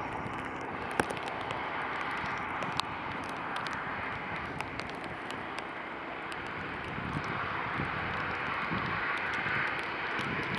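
Jet airliner engines running: a steady rushing noise that swells slightly in the second half, with a few faint clicks.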